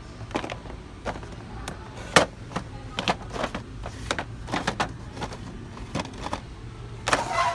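Irregular knocks and clicks of things being handled, with a louder clatter near the end, over a low steady hum.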